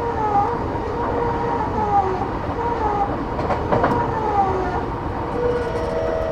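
JR East E233 series 8000 commuter electric train running at speed, heard from inside the passenger car: a steady rumble with a faint whine and a few clacks from wheels crossing rail joints.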